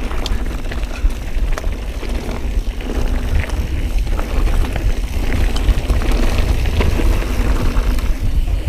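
Mountain bike riding over a rocky trail: a constant low rumble of tyres and wind on the microphone, with scattered rattles and knocks from the bike bouncing over rocks.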